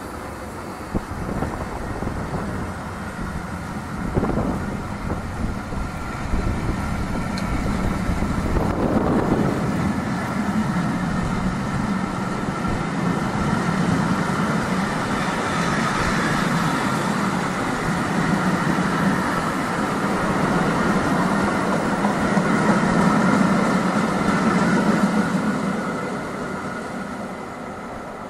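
A train running through the station, its steady hum growing louder from about six seconds in and fading away near the end, with wind buffeting the microphone.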